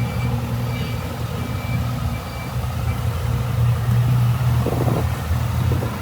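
Honda CB650F's 649cc inline-four engine idling steadily. In the background, a beep repeats about every three-quarters of a second and stops about halfway through.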